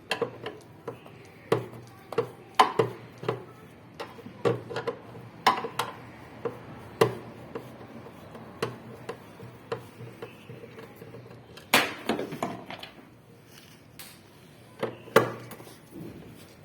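Irregular sharp clinks and knocks of metal tools and parts being handled and set down, with louder knocks now and then.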